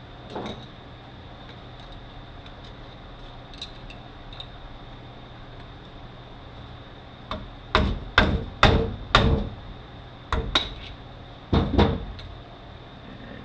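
Hammer tapping on steel parts of a manual transmission's shaft assembly, working the shaft clips off. A few faint metal clicks come first, then about nine sharp ringing strikes in two runs, roughly half a second apart.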